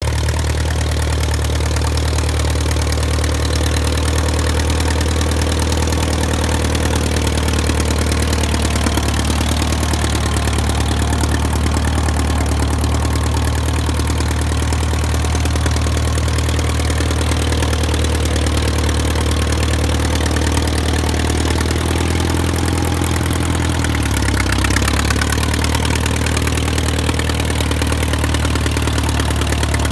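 1938 Massey-Harris Pacemaker orchard tractor's engine running steadily at a low, even speed as the tractor is driven. About twenty-four seconds in, the engine note dips briefly and then settles back.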